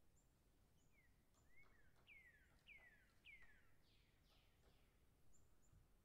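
Faint bird calls: a run of downward-sliding whistles, three in quick succession about two to three and a half seconds in, with thin high chirps around them.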